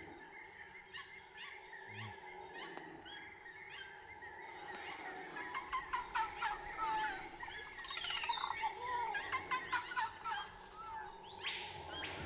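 Rainforest ambience: many birds calling in short, rapid chirps and trills over a steady insect drone, the calling growing busier and louder about halfway through.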